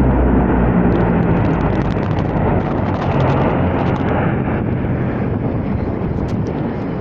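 Military aircraft flying past overhead: a loud, steady engine rumble that slowly fades.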